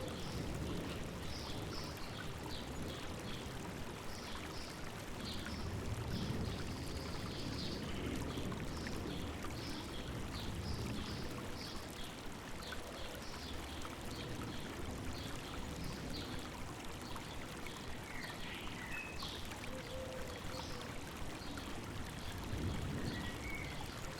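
A river running steadily, with birds chirping in many short, high notes throughout and a few short sliding whistles in the later part.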